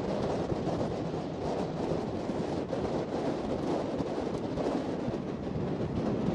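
A passenger train running along the track, with the steady rumble of the coaches on the rails and wind buffeting the microphone held out of the open door.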